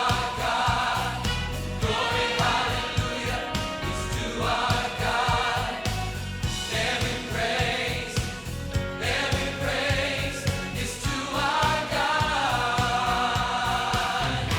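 Music: a choir singing with accompaniment that keeps a steady beat.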